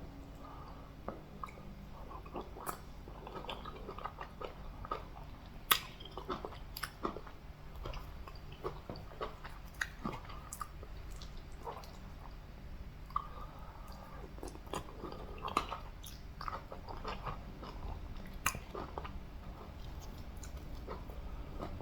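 Close-miked mouth sounds of a person eating fufu with soup and meat: wet chewing with many short, sharp clicks and smacks scattered throughout.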